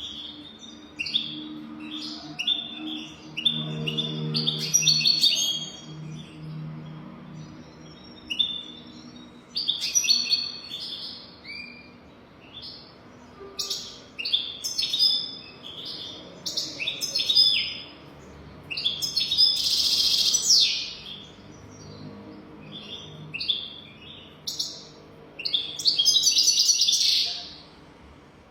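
European goldfinch singing: bursts of quick twittering chirps broken by short pauses, with loud buzzy, rattling trills near the middle and toward the end.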